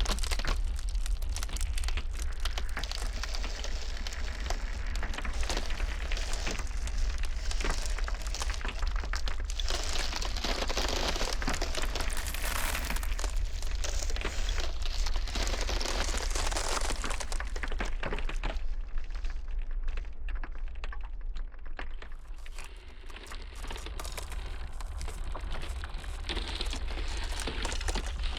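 Ice cracking and crackling in a dense stream of sharp snaps, over a steady low rumble of blizzard wind. The crackling thins out and softens briefly about two-thirds of the way through, then picks up again.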